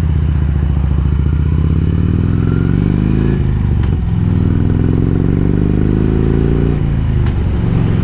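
Harley-Davidson Road King's V-twin engine pulling hard under acceleration, its note rising through one gear and dropping with an upshift about three and a half seconds in, then rising again to a second upshift near the end, with wind rush over the microphone.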